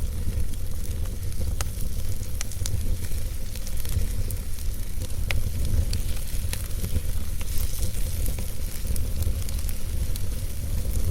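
Wood fire burning in a fireplace: a steady low rumble of flames with a constant hiss and scattered sharp crackles and pops from the logs.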